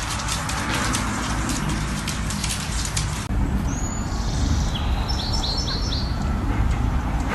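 A crackling hiss full of sharp clicks cuts off abruptly a little under halfway. Then a bird chirps, including a quick run of about four short high notes, over a low steady rumble.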